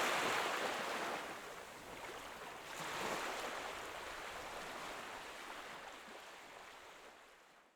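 Sea waves washing onto a beach, one wave swelling about three seconds in; the sound then fades out gradually to nothing at the end.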